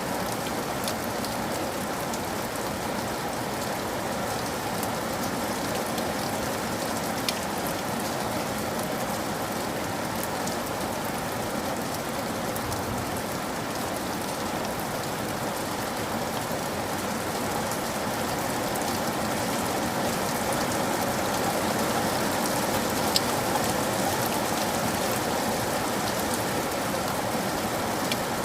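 Steady rain falling on a surface, an even hiss with scattered individual drop ticks and a few louder drips.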